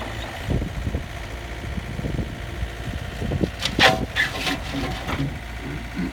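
Komatsu PC50UU-2 mini excavator's diesel engine running, with scattered knocks and a brief harsh scraping burst about two-thirds of the way through.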